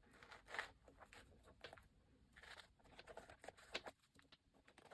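Faint, soft rustling and scraping of a paper notebook being slid slowly into a tight-fitting canvas notebook cover with leather trim, with a few light taps and clicks.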